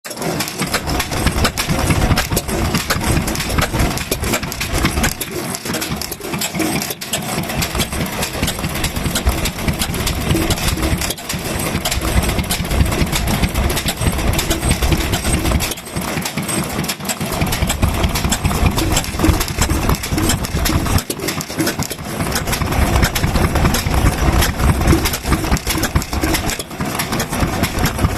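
Vintage Japanese stationary kerosene engines (hatsudoki) running, a loud, dense run of rapid firing beats with brief dips in level now and then.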